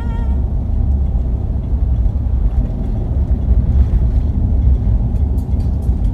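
Steady low rumble of a car on the move, heard from inside the cabin: engine and tyre noise while driving.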